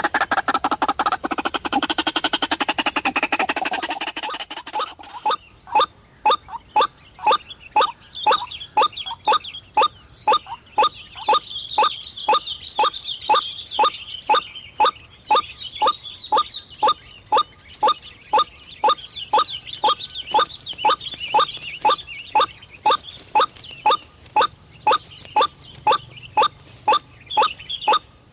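White-breasted waterhen (ruak-ruak) calling. Loud, jumbled calling for the first few seconds gives way to a monotonous, evenly repeated call note about twice a second.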